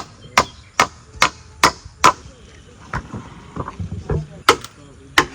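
Repeated chopping strikes of a blade, quick and even at about two or three a second, then slowing to a few irregular blows after about two seconds.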